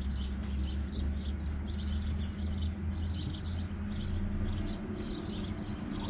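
Songbirds chirping and singing, many short high calls following one another, over a steady low hum that drops away about five seconds in.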